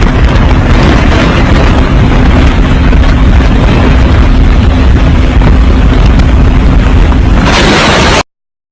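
Hurricane-force wind blasting the microphone: a loud, distorted, even roar that cuts off abruptly near the end.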